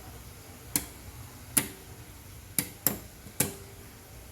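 Sharp mechanical clicks from the fire pump control panel, five in about three seconds, some with a brief ring, over a low steady hum.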